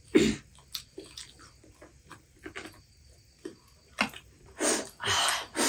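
People chewing and biting into fried chicken lollipops close to the microphone: scattered wet smacks and clicks of eating, with a few longer noisy bursts near the end.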